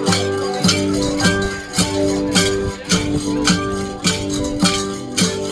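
Cồng chiêng gong ensemble playing: bronze gongs struck in a steady repeating beat, roughly two strikes a second, with several gong tones ringing on over one another.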